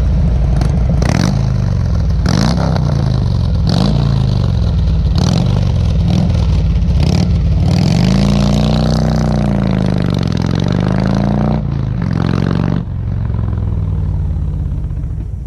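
Harley-Davidson Road King's air-cooled V-twin engine running under load, its pitch rising and falling as the throttle opens and closes while the bike crosses a stream on a rough dirt track. Sharp clattering strokes come several times in the first half.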